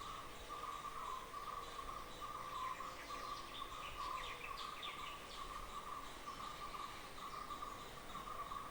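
A continuous insect trill at one steady pitch, pulsing throughout, with a few quick bird chirps over it in the middle.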